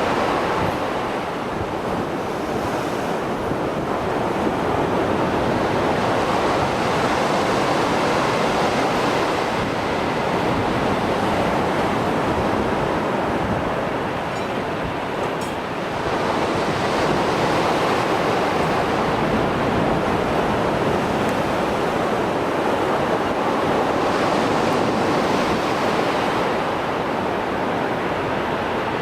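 Mediterranean Sea surf after a storm: waves breaking and washing ashore in a continuous rush that swells and eases every several seconds. Some wind on the microphone.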